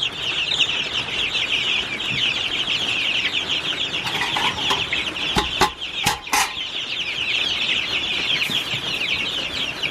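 A brood of young chickens peeping. The high chirping is dense and keeps going, a sign the birds are doing well. A few sharp knocks come a little past the middle.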